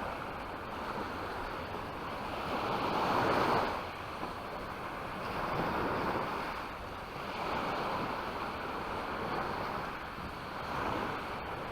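Sea waves breaking and washing up a beach, swelling and falling back every few seconds, the loudest surge about three seconds in, with some wind on the microphone.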